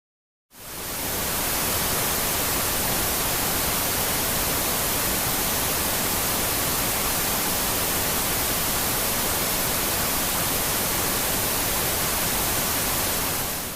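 Steady static hiss like white noise, even and unchanging, fading in about half a second in and fading out at the end.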